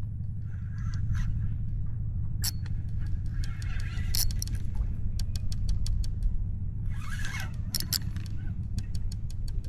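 Steady low wind rumble on the action camera's microphone, with scattered sharp clicks and three short splashy hisses.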